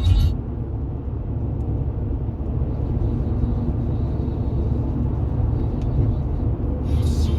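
Steady low rumble of a car driving on the motorway, engine and tyre noise. Music cuts off just after the start and comes back near the end.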